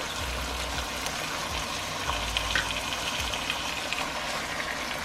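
Chicken thighs sizzling in a pan of butter with bell peppers, onions and garlic: a steady frying hiss with light crackles, over a low hum.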